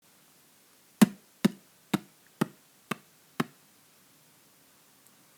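Six sharp, evenly spaced knocks, about two a second, then quiet.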